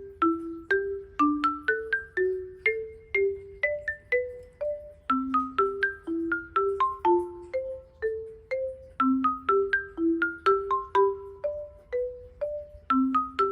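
Background music: a light, steady melody of struck notes that fade quickly, a lower line with a higher line above it, in the manner of a marimba or glockenspiel.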